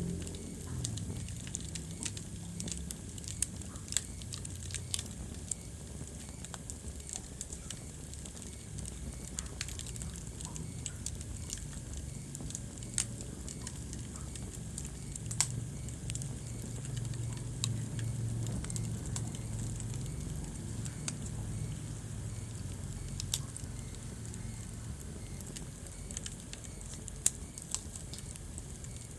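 Wood fire crackling in a fireplace: scattered sharp pops and snaps, a few of them louder, over a steady low rumble.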